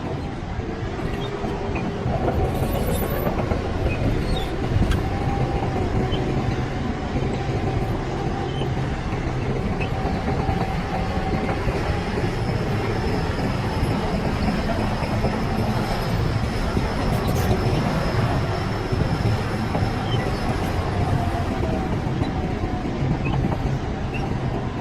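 Shantui DH17C crawler bulldozer working: a steady diesel engine hum under load, with the clatter of its steel tracks and a thin high track squeal through the middle stretch.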